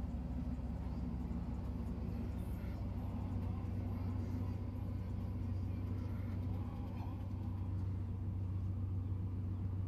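V8 engine idling steadily through a loud aftermarket dual exhaust, a low even rumble with no revving.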